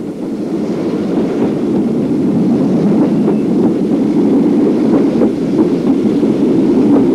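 Steam-hauled passenger train running on the rails, heard from a carriage. A steady rumble of wheels swells up in the first second, with scattered faint clicks.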